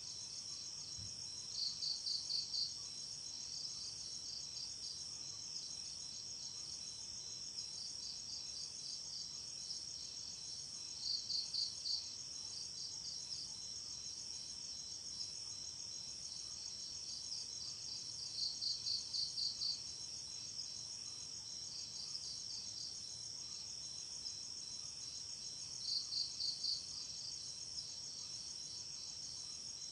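Night insect chorus of crickets, a steady high trilling, with a louder chirp of five or six quick pulses repeating about every seven to eight seconds.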